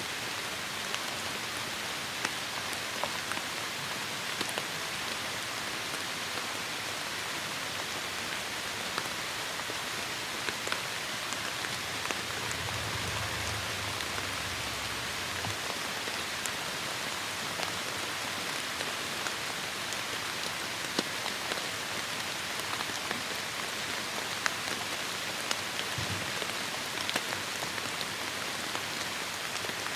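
Heavy rain falling steadily: a dense, even hiss with many sharp ticks of single drops striking a surface. A faint low rumble for about three seconds near the middle.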